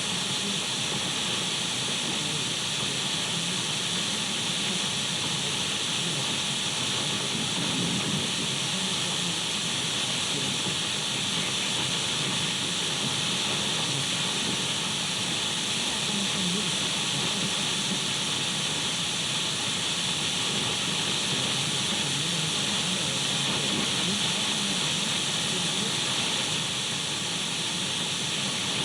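Radio static: a steady, even hiss of an untuned radio, with a few faint steady whistle-like tones running through it.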